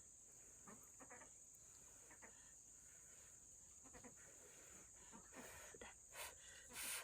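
Near silence with faint, steady, high-pitched insect chirring, and a few brief rustling noises near the end.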